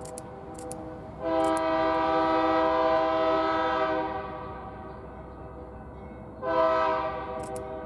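BNSF freight locomotive's multi-chime air horn sounding two blasts: a long one of about three seconds starting a second in, then a second blast starting near the end.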